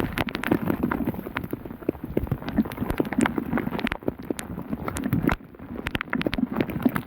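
Heavy rain falling, with many irregular sharp taps of drops striking close by.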